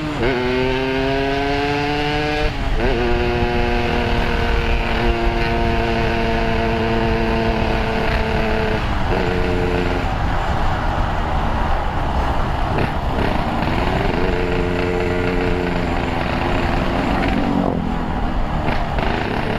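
Yamaha RX-King's two-stroke single with a Boban C33 expansion-chamber exhaust, pulling up through the gears with the pitch rising and dropping at two quick shifts, then holding a steady cruise. About nine seconds in the throttle comes off and the engine fades under wind and road noise, then it climbs again and drops at another shift near the end.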